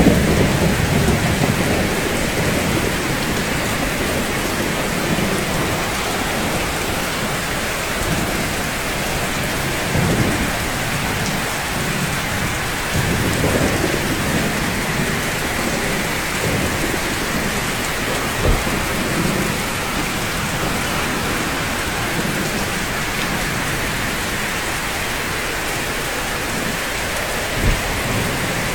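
Steady rainfall on rooftops with low rumbles of distant thunder, heaviest at the start and swelling again about a third of the way in. There are two short low thumps, the second near the end.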